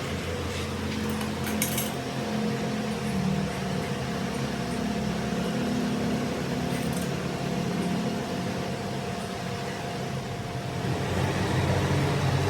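Workshop machinery running with a steady hum, with a few faint clicks now and then.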